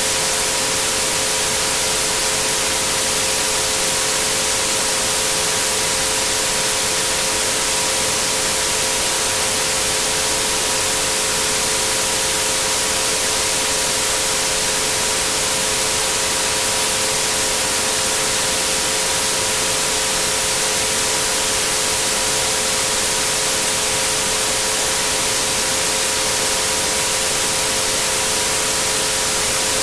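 Synthetic white-noise hiss with three steady pure tones mixed in, at 432, 528 and 963 Hz, holding level with no change.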